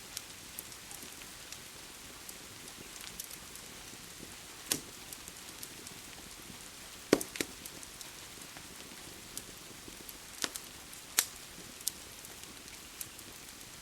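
Steady rain hiss with a wood fire crackling over it: scattered sharp pops and snaps, the loudest about seven seconds in.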